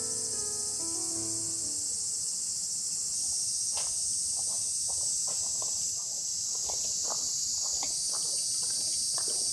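Steady high-pitched drone of summer insects. The tail of some music fades out in the first two seconds, and from about three seconds in come irregular crunching footsteps.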